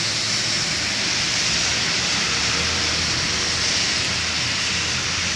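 A truck engine running low and steady under a loud, even hiss.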